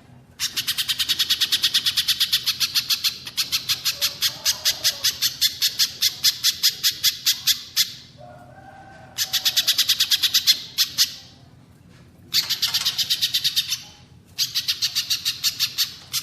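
Recorded songbird calling: fast runs of sharp, high chip notes, four runs with short pauses between them, the first and longest lasting about seven seconds.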